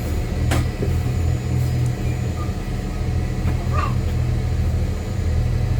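Steady low rumble of a JR diesel-hybrid train's engine heard from inside the car, with a couple of short clicks.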